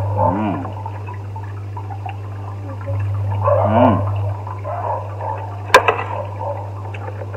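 Close-miked wet chewing and mouth noises from eating creamy fettuccine and grilled pork, over a low steady hum. Two short rising-and-falling whines come about three seconds apart, and a sharp click sounds near six seconds in.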